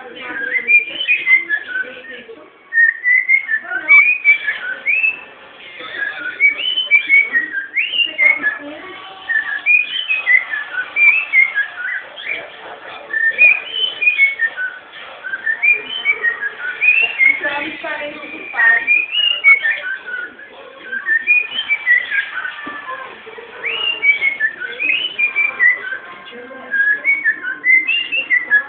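Cockatiel singing, a long run of quick whistled notes that rise and fall, in phrases broken by short pauses.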